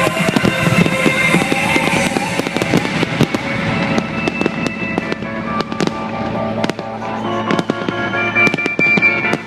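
Fireworks going off in rapid, irregular bangs and crackles over sustained music.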